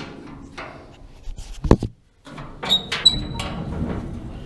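Metal knocks and clinks from handling the hay dogs and their fittings on a Lely Welger D4006 square baler. There is one sharp knock about a third of the way in, then a brief pause, then clinks with a short high ring and rustling handling noise.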